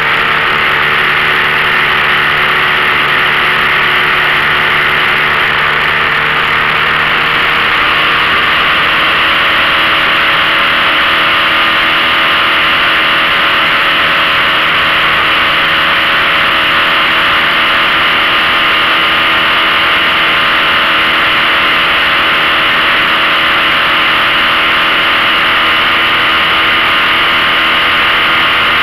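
A 15 hp outboard motor running steadily on a small aluminium-style V-bottom fishing boat, over a constant rush of noise; its pitch shifts upward about eight seconds in as the revs change.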